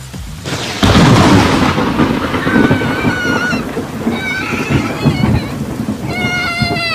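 A loud clap of thunder breaks about a second in over falling rain and rumbles on, fading slowly. Short high, wavering tones sound over it a few times, the last near the end.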